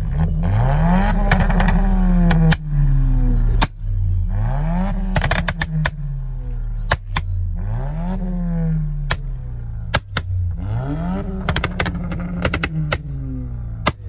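A car engine revved four times, about every three seconds, each rev climbing quickly and falling away, with sharp pops and crackles from the exhaust as the revs drop.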